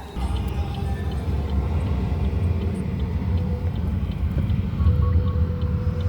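Steady low rumble of a car driving, heard from inside the cabin, with music playing underneath.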